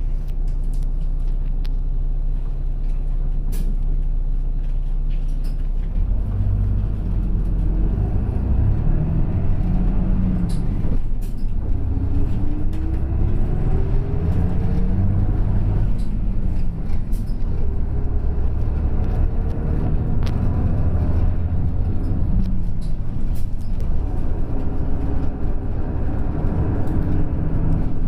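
Diesel engine of a route bus heard from inside the cabin, idling steadily. About six seconds in it pulls away, and the engine note rises through the gears as the bus gathers speed.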